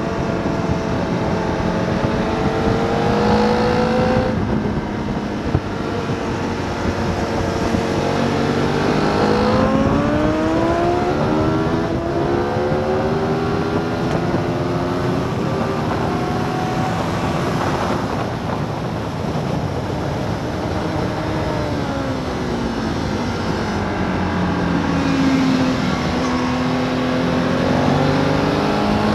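Sport motorcycle engine at high revs, heard from on board at racing speed. Its pitch climbs, drops sharply at each upshift and climbs again, then falls away in long downshifting runs under braking, over steady wind rush.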